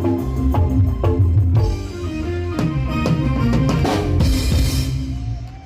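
Dangdut band music played loud through a large sound system: drum kit with a steady beat over bass and pitched instruments, a cymbal crash about four seconds in, and the music dropping away at the end.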